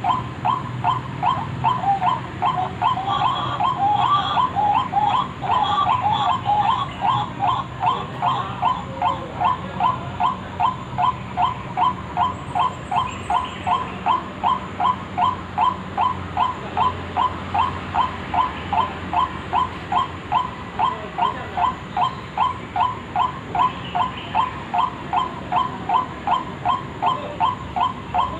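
White-breasted waterhen's lure call, its croaking notes repeated evenly about two to three times a second without a break. During the first several seconds the notes sound busier and overlap.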